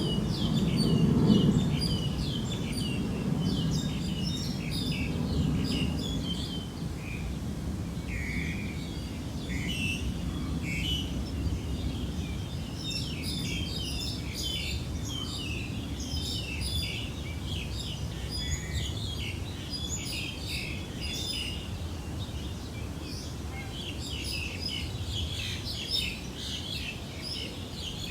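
Small birds chirping in quick, short notes throughout, many calls overlapping, over a steady low background rumble that is strongest in the first couple of seconds.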